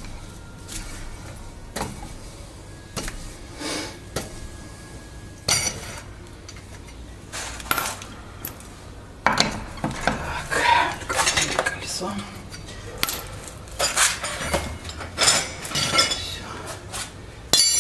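Metal clinks and knocks of a wheel wrench and lug nuts as a car's wheel nuts are unscrewed fully. A few scattered clicks at first, then a busier run of clinks in the second half.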